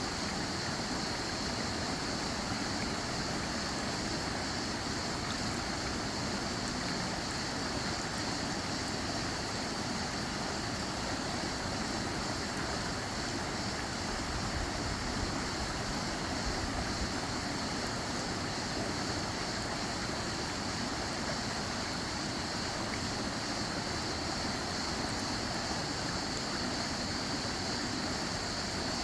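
Running water rushing steadily, an even, unbroken hiss with no pauses or changes.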